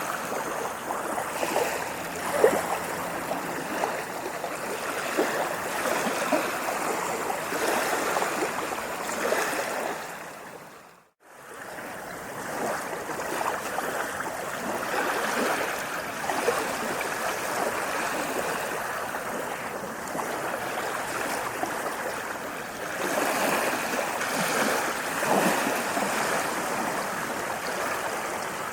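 Moving water splashing and gurgling continuously. It fades out to silence about eleven seconds in, then fades back in.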